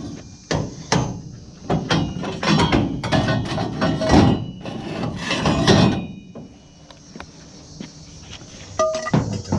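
Scrap pieces being handled and loaded: a quick run of knocks and thumps over the first six seconds, then a few more knocks near the end.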